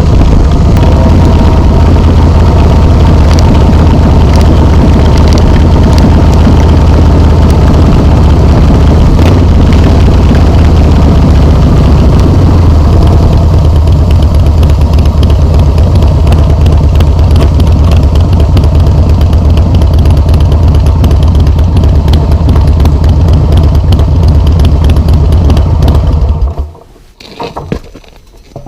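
Harley-Davidson Softail Slim S V-twin running through Vance and Hines slip-on mufflers: a loud, steady low exhaust note at idle. The engine cuts off near the end, leaving only a few faint short noises.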